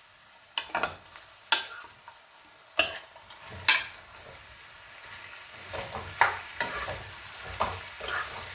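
Marinated chicken frying in a pan of oil and onion masala, sizzling, while a spoon scrapes and knocks against the pan as it is stirred in. The sizzle grows stronger about halfway through, with a string of sharp scrapes throughout.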